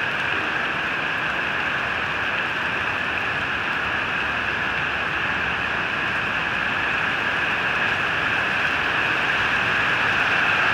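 Heavy rain falling on a wet street and pavement, a steady hiss that grows slightly louder near the end.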